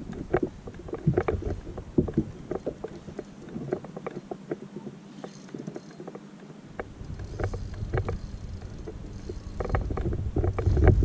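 Water slapping against a small boat's hull, with many short, irregular knocks over a low rumble.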